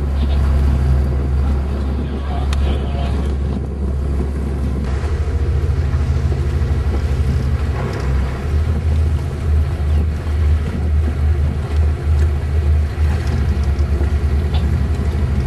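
A boat's engine running steadily with a low rumble. From about five seconds in, wind buffets the microphone in rapid, uneven gusts.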